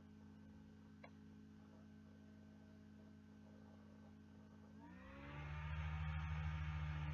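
Faint steady hum, then about five seconds in an engine starts: its pitch rises briefly as it catches and it settles into a much louder, steady run.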